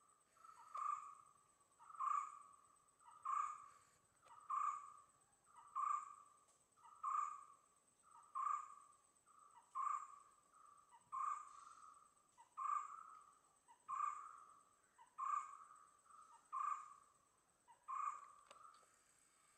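A bird calling one short note over and over, evenly about every 1.3 seconds, some fourteen times. Behind it runs a steady high-pitched insect drone.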